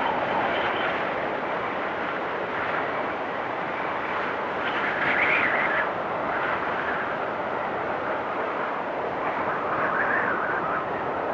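Blizzard wind blowing steadily, with gusts that swell and rise in pitch about five seconds in and again near ten seconds.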